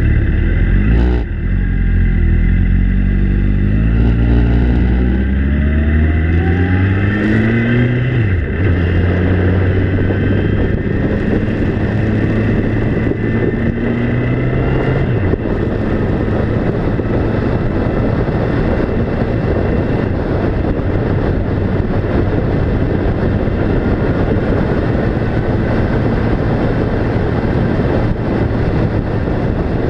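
A vehicle engine accelerating through the gears: its pitch climbs, drops at a shift about a second in and again at about eight seconds, and climbs again. From about halfway it settles into steady running under even road noise.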